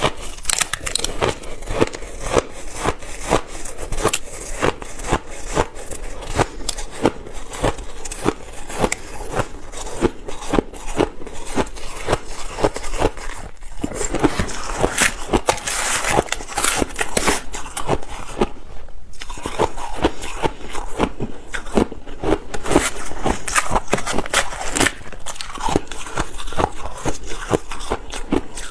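Ice being bitten and chewed close to the microphone: a dense, irregular run of sharp crunches and crackles, with two short lulls near the middle.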